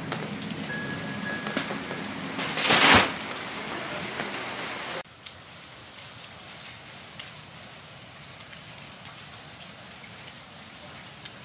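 Steady rain falling, with individual drops ticking. A brief loud rush of noise swells and fades about three seconds in, and about five seconds in the sound drops suddenly to a quieter rain.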